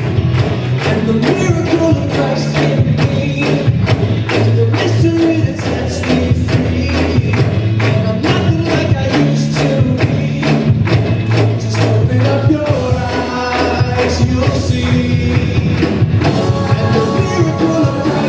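A live band playing an upbeat worship song with a steady drum beat and tambourine, in an instrumental passage.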